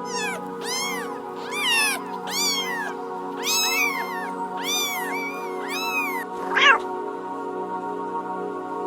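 Cat meowing repeatedly: about eight short meows in quick succession, each rising then falling in pitch, then a single sharper, louder meow near the end, over steady background music.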